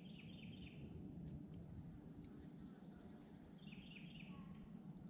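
Faint bird calls: two short runs of high chirps, one at the start and one about three and a half seconds in, over a low, steady background noise.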